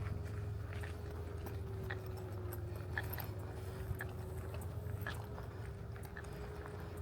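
Footsteps on a trail at a steady walking pace, each step a short crunch. A faint steady hum runs underneath.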